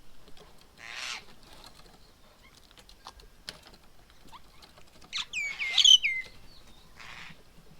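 Birds at a feeding table: a quick burst of sharp, downward-sliding chirps about five seconds in, the loudest sound, over scattered light taps and scratches. There are short rustling bursts about a second in and again near the end.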